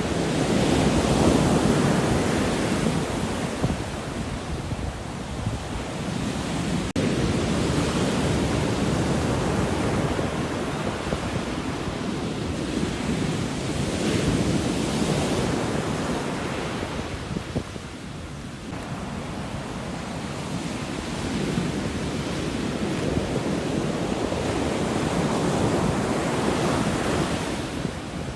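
Sea waves breaking and washing ashore in slow surges, swelling and falling away every several seconds.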